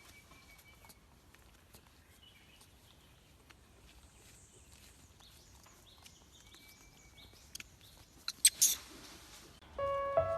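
Quiet outdoor ambience with a few faint, short, high chirps and scattered ticks. About eight and a half seconds in there is a loud burst of sharp clicks and crackle, and music begins just before the end.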